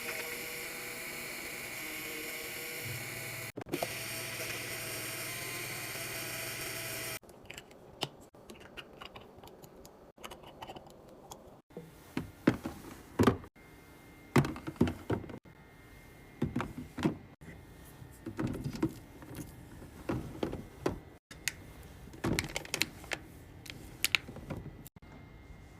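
Restocking clatter: containers and packages being set down and arranged, making a run of separate clicks, knocks and light clacks. This follows a few seconds of steady hiss.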